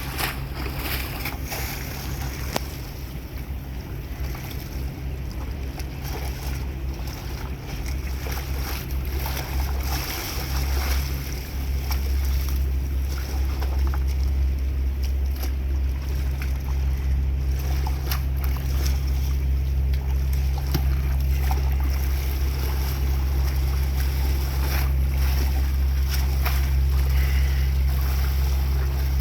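Small passenger ferry's engine running with a steady low hum as the boat pulls away from the pier, growing louder about ten seconds in as it picks up power, with water and wind noise beneath.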